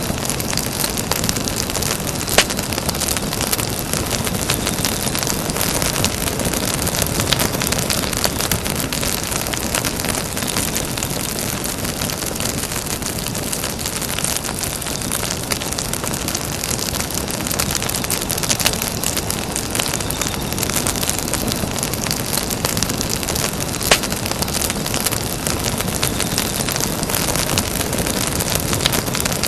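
Campfire crackling: burning wood gives a steady dense hiss with many small pops, and two sharper pops stand out, one about two seconds in and one late on.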